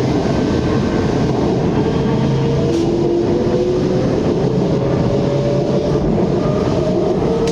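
Bangkok BTS SkyTrain elevated electric train running, a steady rumble with a whine that slowly rises in pitch as the train picks up speed.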